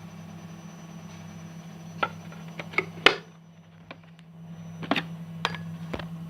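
A handful of sharp clicks and knocks, the loudest about three seconds in, over a steady low hum.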